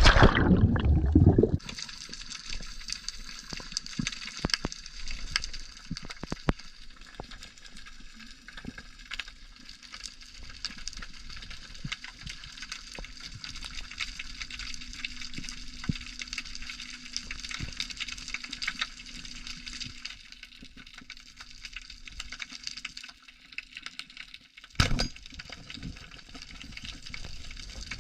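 Steady watery hiss with many small crackling clicks running through it. A louder rush of sound opens it, and another short one comes at about 25 s.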